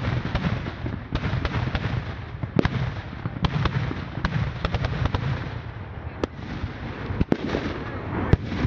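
Fireworks going off in a display: many sharp bangs and pops at irregular intervals over a continuous crackling hiss.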